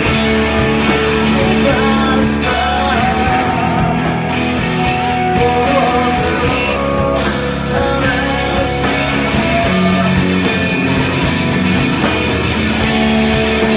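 Rock band playing live on electric guitars, bass guitar and drums, loud and full with a steady driving beat.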